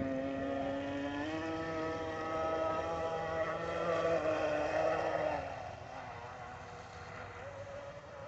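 Battery-powered Kyosho Jet Stream radio-controlled boat running on the water, its motor whining. The pitch rises about a second in as power is applied, then the whine fades and drops lower after about five seconds as the boat moves off or the power is let off.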